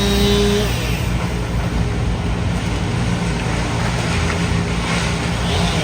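A large engine of heavy machinery running steadily with a low, even rumble, and a short steady tone in the first half-second.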